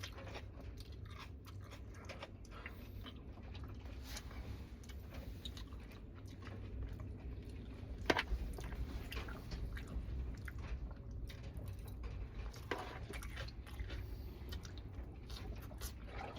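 A person chewing and biting food, with many small crunching and smacking sounds and one sharper crunch about halfway, over a steady low hum.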